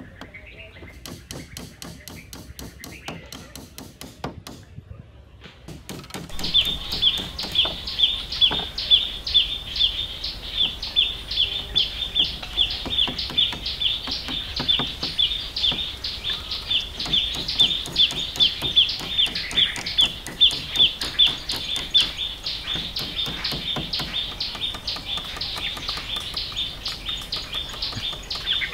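A bird calls a short, high chirp over and over, about two to three times a second, starting about six seconds in. There are a few light knocks of a hatchet on wooden poles, and in the first seconds a fainter rapid ticking.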